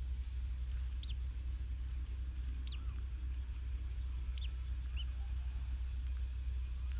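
A bird giving short, high, down-slurred chirps, four of them spaced a second or two apart, the last one weaker, over a steady low rumble.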